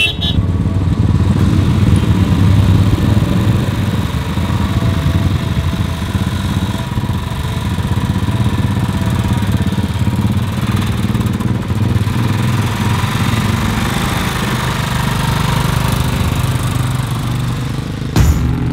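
Royal Enfield Bullet 500 single-cylinder motorcycle engine running steadily under way in traffic, with road and wind noise over the low engine drone.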